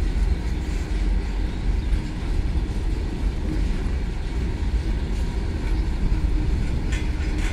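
Empty BCNA covered freight wagons rolling past, their steel wheels on the rails making a steady rumble.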